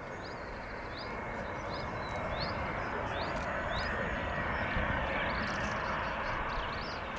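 Boeing 737-400 freighter's CFM56 jet engines on landing approach: a steady rushing that swells to its loudest about halfway through, then slowly eases. A small bird chirps repeatedly over it.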